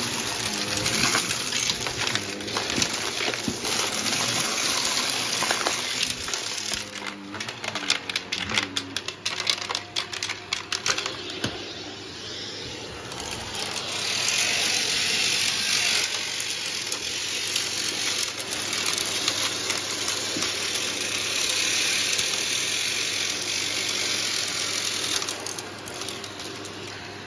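Numatic Hetty vacuum cleaner running and sucking up a dry mess through its hose, with debris clicking and rattling up the tube, thickest between about 6 and 12 seconds in.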